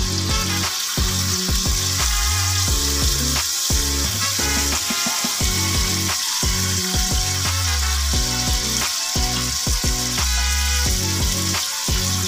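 Turon (banana spring rolls) sizzling with a steady hiss as they fry in a pan of dairy cream. Background music with a bass line plays over it.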